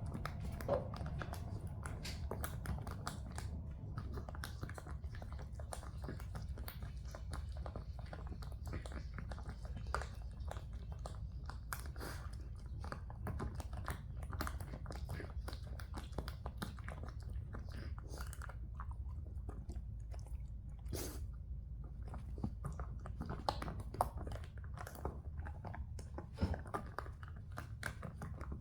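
A dog chewing and crunching dry kibble, with many short, sharp crunches and clicks at an uneven rate, over a low steady hum.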